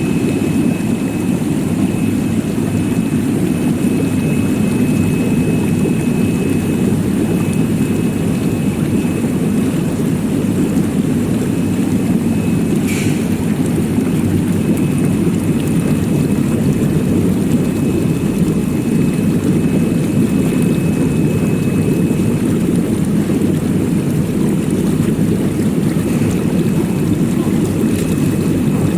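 Vegetable washing machine running steadily: a constant motor drone with a faint, steady high whine above it.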